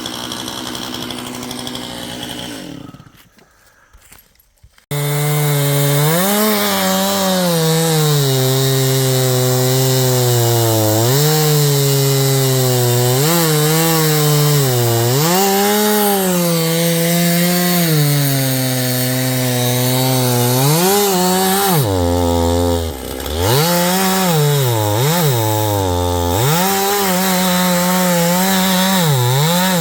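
Stihl chainsaw cutting into a large poplar, its engine at full throttle with the pitch sagging and recovering every second or two as the chain loads up in the wood. The saw goes almost quiet for about two seconds a few seconds in, then comes back at full speed.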